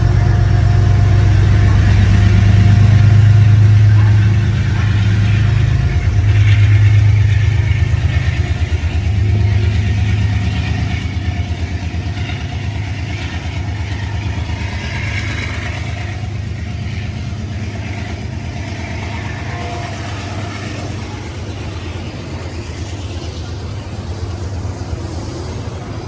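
Engine drone of a passing train, loud at first and fading steadily as it moves away.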